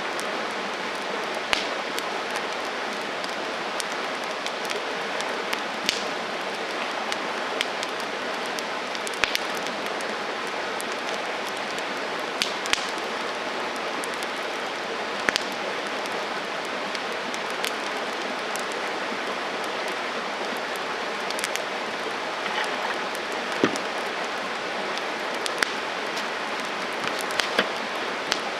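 Wood campfire burning with a steady hiss and irregular sharp crackles and pops every second or two.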